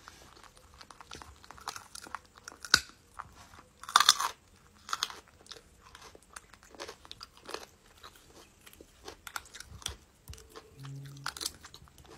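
Raw carrot being bitten and chewed: a run of crisp crunches and chewing clicks, the loudest about three and four seconds in.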